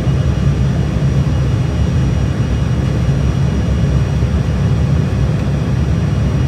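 Steady, loud rumble of an aeroplane's engines and airflow heard inside the cabin, with a few faint steady tones above it.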